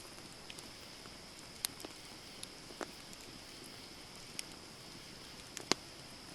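Wood campfire burning: a steady soft hiss with scattered sharp crackles and pops, about five in all, the loudest a little before the end.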